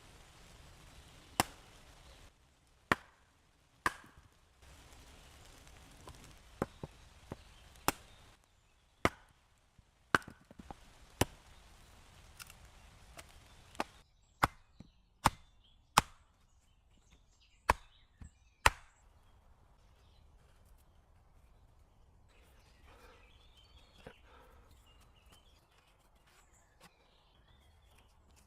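Wood being chopped: a dozen or more sharp, separate blows, roughly one a second, that stop about two-thirds of the way through, leaving faint rustling.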